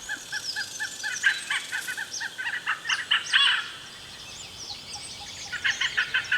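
Malabar pied hornbills calling in rapid series of short, harsh notes, several a second. The calls break off for a couple of seconds about midway and start up again near the end, with fainter high chirps of smaller birds above them.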